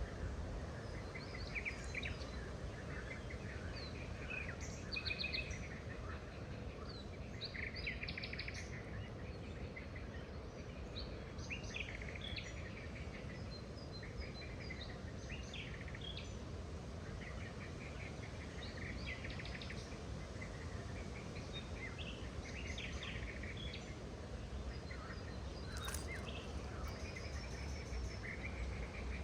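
Several wild birds chirping and trilling in short, overlapping calls, over a steady low background noise.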